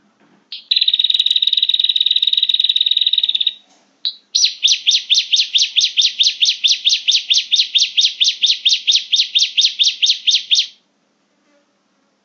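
Prinia (prenjak) lure call: a buzzing trill of about three seconds, then after a short break a long run of rapid, evenly repeated chirps, about six a second, lasting some six seconds.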